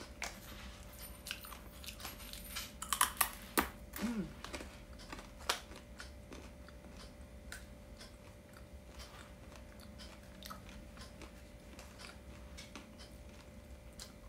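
Someone biting and chewing crisp dried fruit and vegetable chips: a cluster of loud crunches about three seconds in, then softer, scattered crunching.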